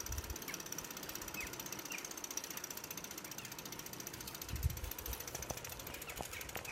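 Bicycle freewheel ticking rapidly and evenly as the bike coasts, with a single low bump about four and a half seconds in.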